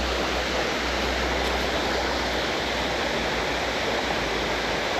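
Steady rush of a creek running high with rainwater.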